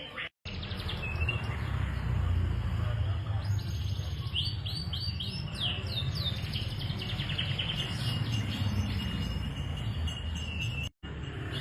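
Domestic canary singing: runs of quick downward-sweeping notes and rapid trills, with a steady low rumble underneath. The sound cuts out briefly just after the start and again near the end.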